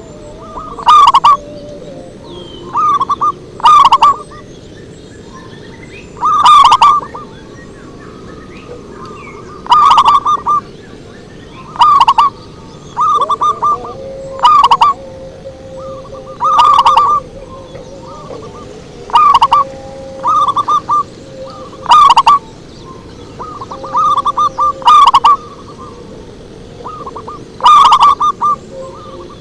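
Zebra dove (perkutut) cooing: loud, short phrases of rapid staccato notes repeated every one to three seconds.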